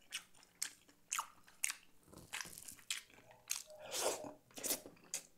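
Close-miked eating sounds of a man chewing boiled beef and rice: a run of short, sharp mouth clicks as he chews, and a louder mouthful about four seconds in as he hand-feeds himself rice.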